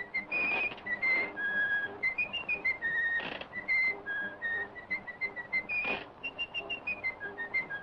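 A whistled tune: a quick melody of short, clear notes hopping up and down in pitch, with a few brief swishes between phrases.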